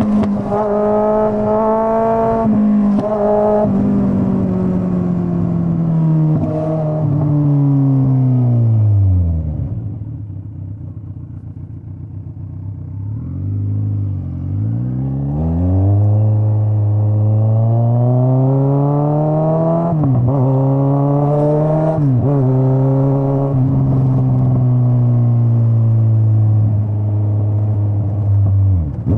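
Straight-piped Kawasaki Z900 inline-four exhaust on the move: the engine note falls away as the bike slows to a quieter low idle about nine seconds in, then the revs climb again about six seconds later and hold steady, with a few brief dips in pitch.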